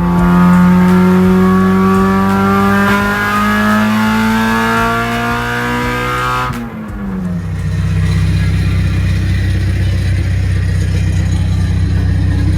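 K20-swapped Honda Civic's four-cylinder engine pulling under acceleration, its pitch climbing steadily for about six seconds. Then it drops off suddenly and settles into a steady lower drone.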